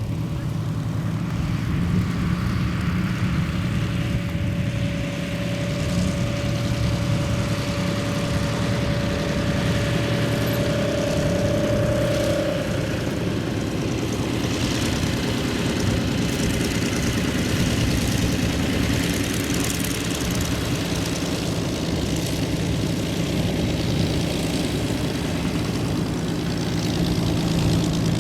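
Piston-engined warbird aircraft running with a steady propeller drone, as the planes arrive at an airfield. A thin whine rises slightly in pitch from about four seconds in and cuts off around twelve seconds.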